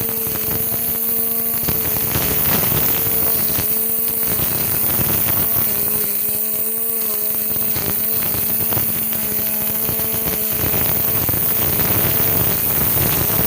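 Homemade brush cutter driven by a blender motor, running at speed: a loud, steady motor whine that dips slightly in pitch now and then, over a dense rattling crackle.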